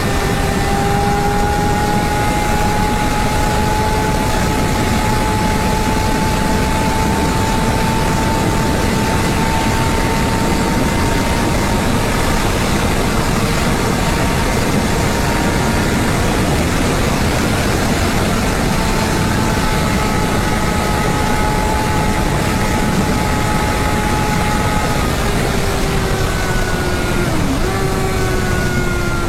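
Honda CBR600RR inline-four running hard at high speed through a LeoVince exhaust, buried in heavy wind rush over the microphone. The engine note climbs slowly and holds, then breaks sharply near the end and falls away.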